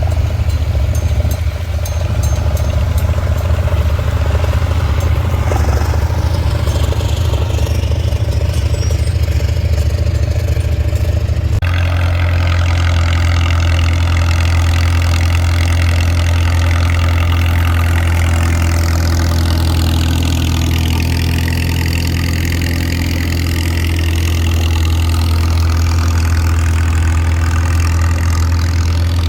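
Tractor engine running steadily under a low, even drone. The engine note changes abruptly about twelve seconds in.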